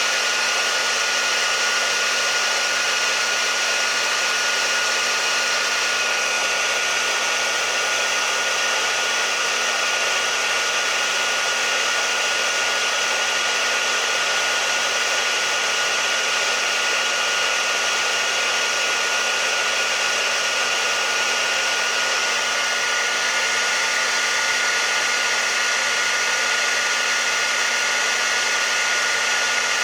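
Hair dryer blowing steadily: an even rushing hiss with a faint high whine from the motor, unchanging throughout, played as white noise to settle a baby.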